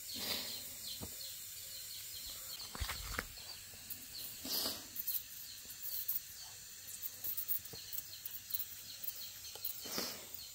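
Quiet outdoor ambience with birds chirping, and a few brief, faint handling noises.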